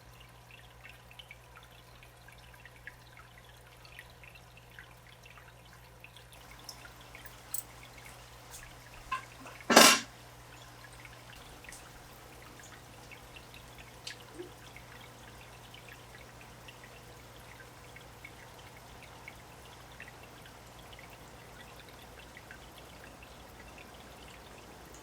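Water trickling and dripping in an aquarium over a steady low hum. A brief loud thump comes about ten seconds in, just after a smaller one.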